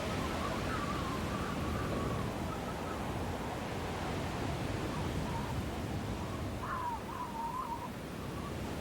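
Steady rushing wind of a snowstorm, with a thin wavering whistle rising over it twice, near the start and again near the end.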